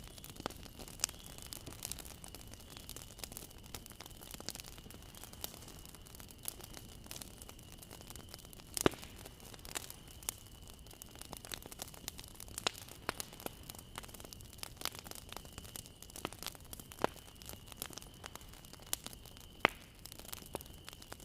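Wood fire crackling: irregular sharp pops and snaps over a low steady hiss, with two louder pops, about nine seconds in and near the end. A faint steady high-pitched tone sits underneath.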